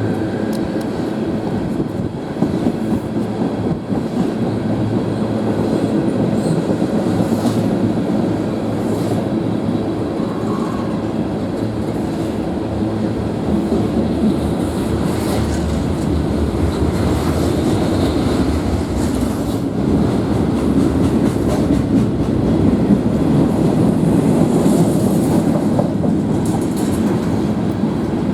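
Freight cars of a CN manifest train rolling past steadily, wheels clacking over the rail joints.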